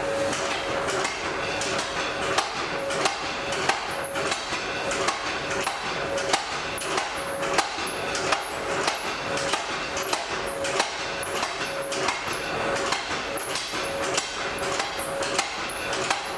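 Blacksmith's hammer striking metal on an anvil: irregular sharp knocks and clicks, some louder blows standing out, over a steady rushing noise from the forge.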